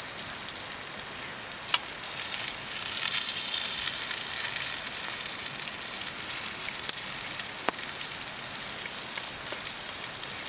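Food sizzling and frying in a hot pan, swelling louder about three seconds in, with a few sharp pops.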